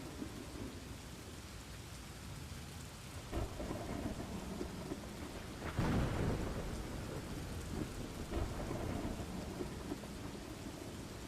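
Thunderstorm ambience: steady rain with rolling thunder, a sharper clap swelling about six seconds in and a lesser one earlier.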